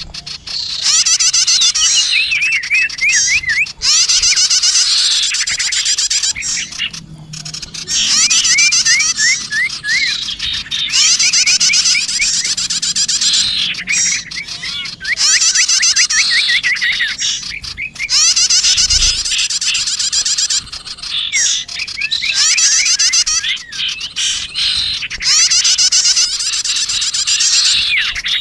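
Bird-lure recording of small songbirds, with prinia ('prenjak') calls mixed with other twittering. Loud bursts of rapid, high chirps and trills repeat every few seconds, with quieter twittering between them.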